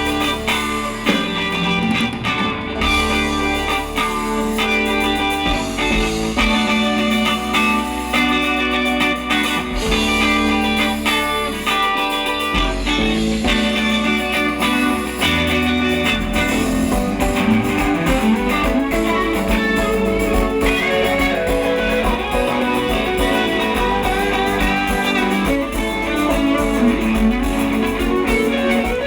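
Live rock band playing an instrumental passage led by electric guitar, with bass and no singing.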